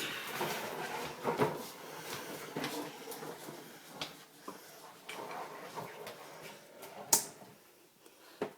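Irregular clatter and small knocks from a child's ride-on toy motorcycle moving over the floor, with one sharp knock about seven seconds in.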